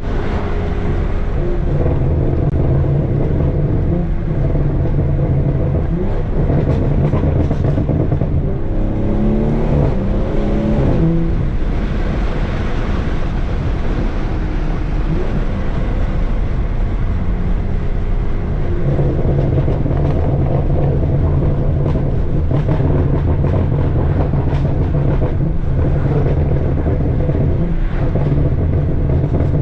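BMW F30 3 Series with a straight-piped exhaust running under way: a loud steady exhaust drone, with revs climbing quickly about ten seconds in. For several seconds after that the drone gives way to a rougher rushing noise, then the steady drone returns.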